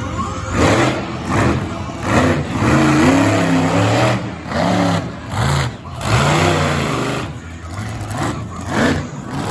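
Monster truck engine revving hard during a freestyle run, its pitch rising and falling again and again as the throttle is blipped and briefly cut several times.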